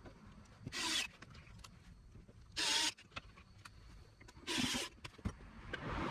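Three short rubbing sounds, about two seconds apart, with a few faint clicks between them: hands handling parts during repair work.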